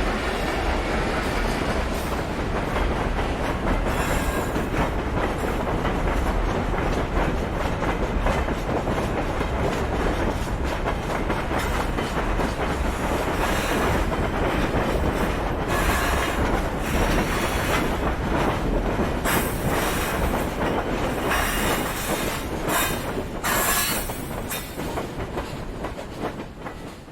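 FS ALn 501 Minuetto diesel railcar running along the track: a steady, loud rumble of wheels on rail, with a run of sharp clicks in the second half. It fades out at the very end.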